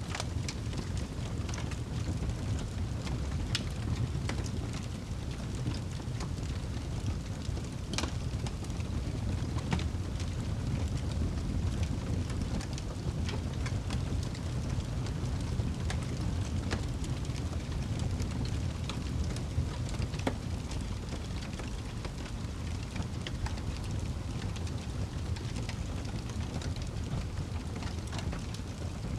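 Wood fire burning in a fireplace: a steady low rush of flame with irregular crackles and pops, the sharpest about eight seconds in.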